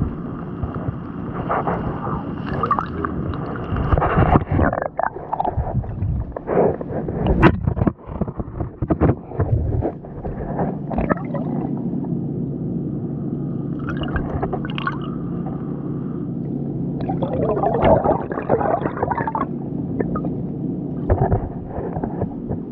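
Pool water sloshing and gurgling around a person moving in it, with a run of knocks and splashes in the first half. A steady low hum comes in under the water sounds about halfway through.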